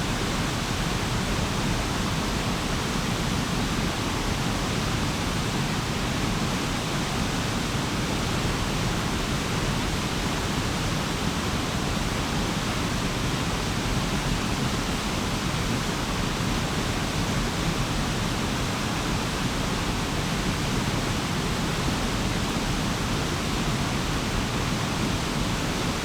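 A stream flowing over stones, a steady, even rush of running water.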